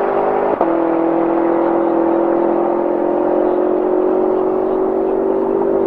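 A BMW car engine running hard at high revs under sustained acceleration, its pitch climbing slowly. About half a second in there is a brief click and a small drop in pitch, like a quick gear change.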